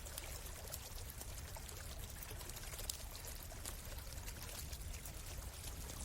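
Stream water flowing steadily, with frequent small sharp crackles from a campfire; one crackle stands out about three seconds in.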